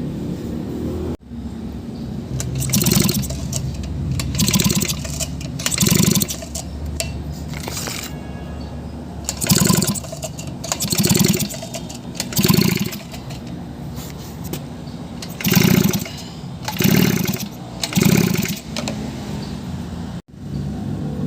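Brush cutter's small two-stroke engine being pull-started over and over: about ten short whirring pulls of the recoil starter, a second or a few apart, and it does not catch. It is a hard start that is blamed on the engine being flooded with gasoline. A steady hum runs underneath.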